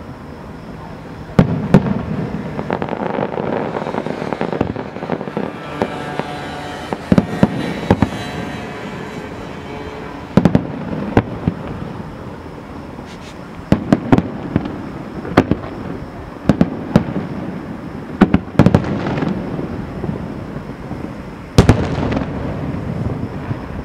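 Fireworks display: aerial shells bursting in many sharp bangs, irregularly spaced and each followed by a low rumble, with denser salvos along the way.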